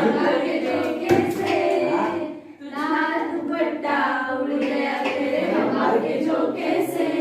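A group of young voices singing a song together, with some hand clapping; the singing breaks off briefly about two and a half seconds in.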